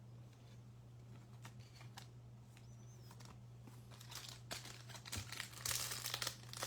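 Plastic crinkling and rustling from trading cards and their sleeves or wrappers being handled, with a few light clicks at first, growing busier and louder past the halfway point. A steady low hum sits underneath.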